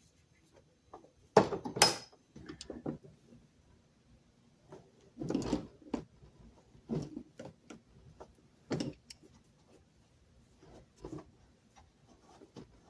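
Irregular knocks and clatter of loose metal lathe parts and tools being handled and set down on a bench, with the loudest pair of knocks about a second and a half in.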